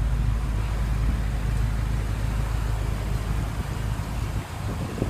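A vehicle engine running steadily with a low hum, which dies away about four and a half seconds in.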